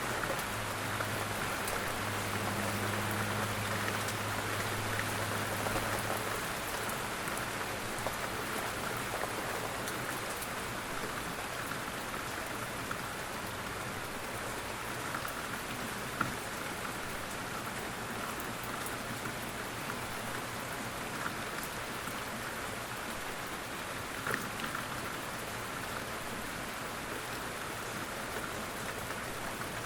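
Steady rain falling, an even patter with a few louder drops now and then. A low steady hum sits underneath for the first several seconds.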